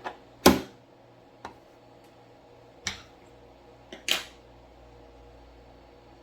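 A few separate sharp clicks and knocks from handling at a sewing machine, the loudest about half a second in and the rest spread over the next few seconds, over a low steady hum.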